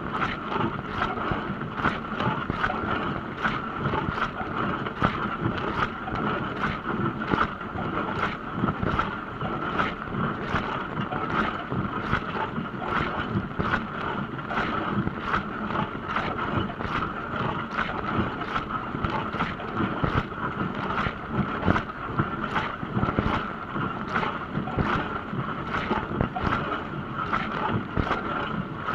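Dishwasher running a wash cycle: water spraying and splashing steadily inside the tub, over a constant steady tone from the machine.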